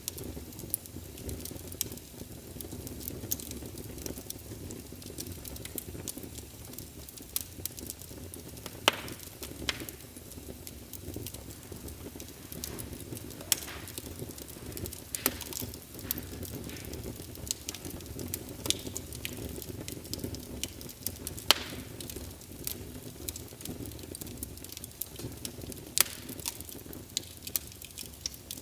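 Crackling wood-fire sound played by a wireless fireplace sound emulator speaker: a steady low rumble with irregular sharp pops and snaps, a few of them louder.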